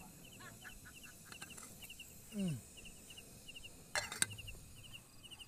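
Metal clinks and knocks of a camping cookware pot lid being handled, a few sharp ones about four seconds in. Insects chirp in a steady rhythm throughout, and a short falling vocal sound comes about two and a half seconds in.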